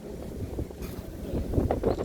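Wind rumbling and buffeting on the microphone, growing louder near the end.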